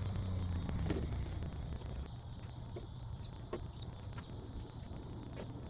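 A few short bird calls over a low steady hum that eases after about two seconds.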